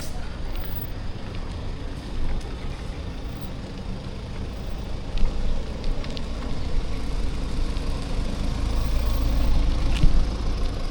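City street traffic: motor vehicles running past, with a low rumble that builds toward the end and a few faint clicks.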